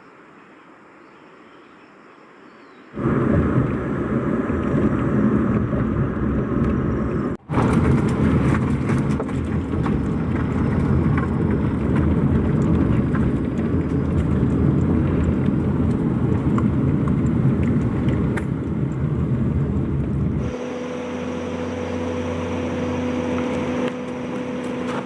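A vehicle on the move: steady, loud engine and road noise that starts abruptly about three seconds in, with a brief cut-out near seven seconds. Near the end it changes to a quieter, steadier hum with a clear low tone.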